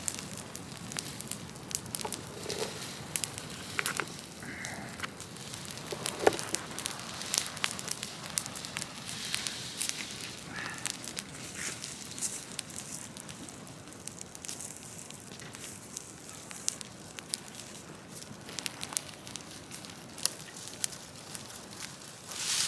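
Large bonfire of cut trees and brush burning, crackling steadily with frequent sharp pops, one louder pop about six seconds in.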